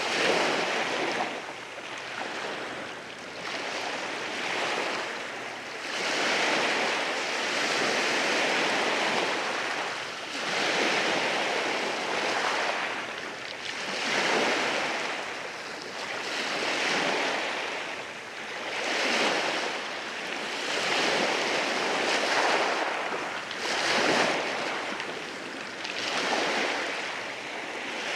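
Waves washing in over rocks on a beach, the surf swelling and falling back every two to three seconds.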